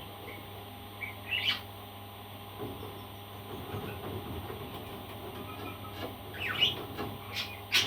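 A parrot giving a few short, high chirps: one about a second and a half in and a small cluster near the end, over a steady low background hum.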